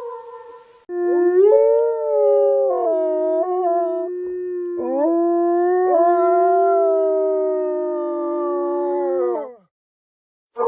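A wolf or dog howling: two long howls, the first sliding up and held from about a second in, the second held longer and sliding down before it stops about a second before the end.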